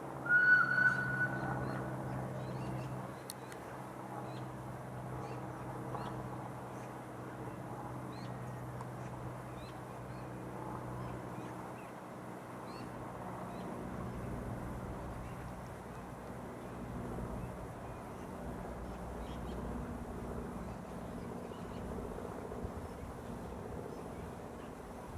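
Miniature steam locomotive whistle giving one short, high toot, followed by a steady low hum with faint light ticks about once a second.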